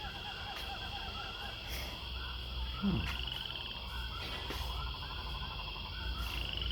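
Chorus of small animal calls outdoors: many quick repeated chirps over a steady high-pitched drone, with short trills twice.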